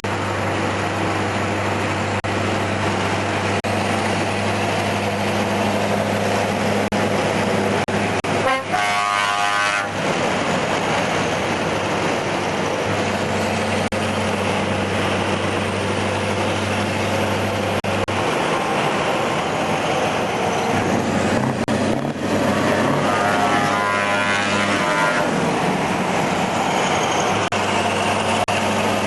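Scania 143M 500 truck's V8 diesel running steadily under way, a constant low drone. About nine seconds in the drone breaks off briefly, and it shifts again for a few seconds past the middle before settling back.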